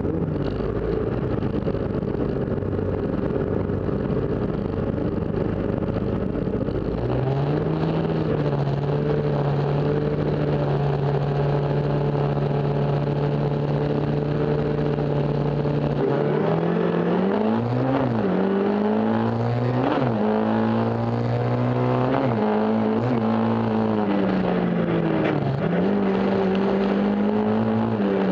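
Fiat 133 folk-race car's engine heard from inside the car. It runs roughly at first, and from about seven seconds in it is held at steady raised revs on the start line. About sixteen seconds in it launches and accelerates hard, the pitch climbing and dropping again with each gear change.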